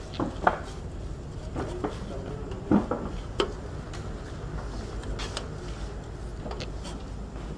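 A few sharp knocks and lighter clatter of hard objects being handled, over a steady low hum.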